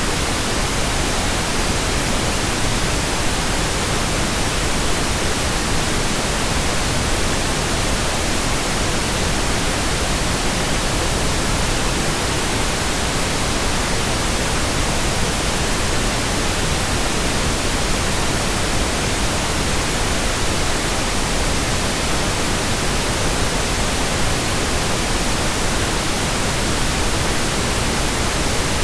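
Steady, unbroken synthetic white noise, an even hiss across all pitches with no changes or other sounds.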